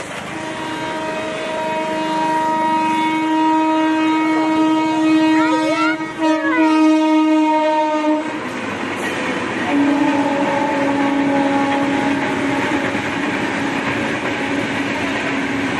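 Indian Railways locomotive horn sounding long held blasts as the Rajdhani Express passes, over the steady rumble and clatter of the train on the rails. After a break of about two seconds the horn sounds again at a noticeably lower pitch.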